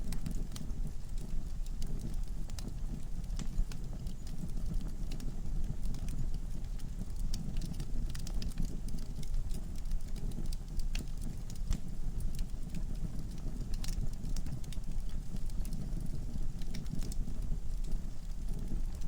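Wood fire burning in a fireplace: a steady low rumble with frequent irregular sharp crackles and pops from the logs.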